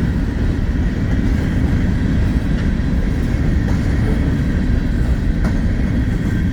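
Loaded freight train rolling past, a steady heavy rumble with a few sharp clicks of wheels crossing rail joints.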